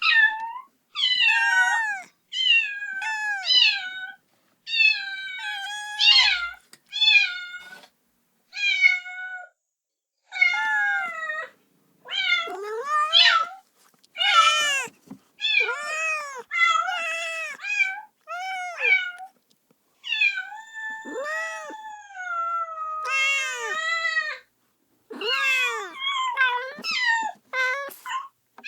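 A kitten meowing loudly and repeatedly, calling for its mother: a run of short, high cries one after another with brief gaps between them.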